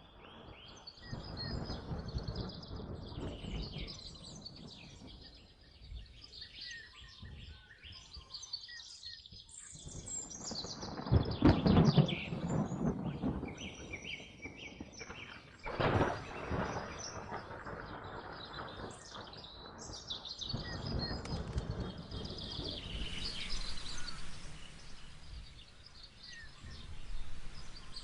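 Many birds chirping and singing over steady rain, with thunder. The thunder rumbles loudest from about eleven to thirteen seconds in, and there is a sharp clap around sixteen seconds in.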